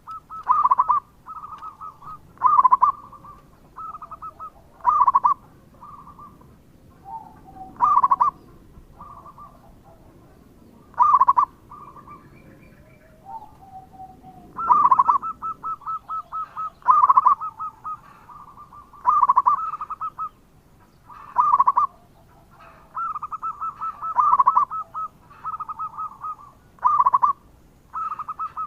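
Zebra dove (perkutut) cooing: runs of quick, evenly pulsed coos, each broken by a louder accented note about every two to three seconds.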